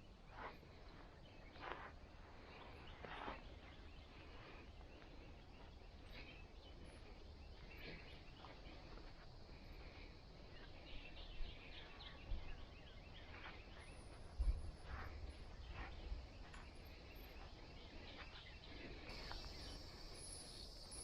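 Faint outdoor riverside ambience: distant bird and insect calls over a low rumble, with scattered soft rustles and knocks every few seconds.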